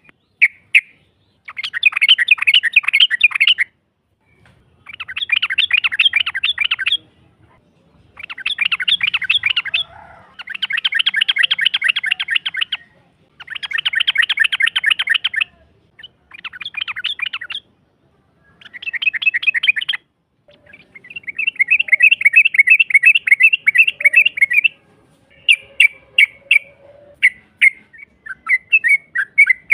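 Yellow-vented bulbul (trucukan) giving long rapid chattering rolls: about nine phrases of two to three seconds each, separated by short pauses, breaking into looser separate notes near the end.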